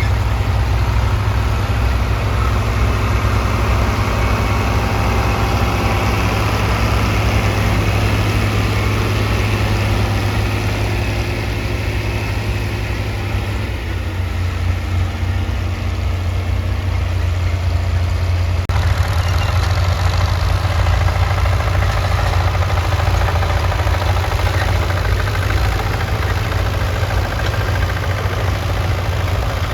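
Antique tractor engine running steadily, a low, continuous engine sound, which changes abruptly a little past halfway.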